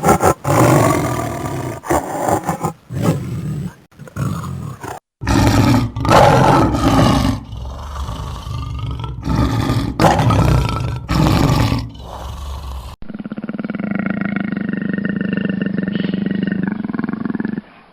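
A big cat roaring: a series of loud roars and grunts, one after another. About thirteen seconds in, a different recording takes over with one long, steady pitched animal call.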